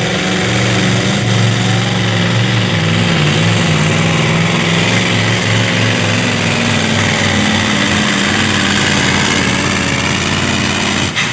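Modified diesel pulling truck's engine at full throttle under load, pulling the weight sled. It holds a steady pitch with slow wavering and a strong hiss above it, and dips briefly right at the end.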